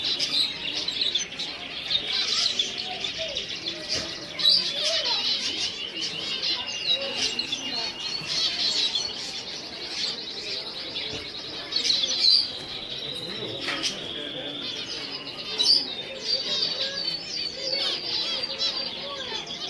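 Many small birds chirping and twittering together, a dense overlapping chatter of short high calls, with a few louder sharp calls standing out about four, twelve and fifteen seconds in.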